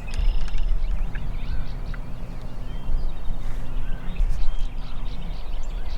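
Wild turkeys calling close by: short bursts of calls over a steady low rumble.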